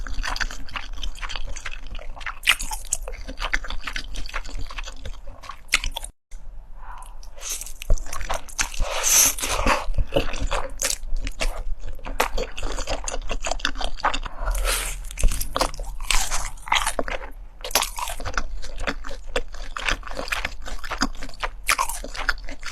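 Close-miked eating: crisp crunching bites into fried chicken and wet chewing, a rapid run of crackles, with a brief gap about six seconds in.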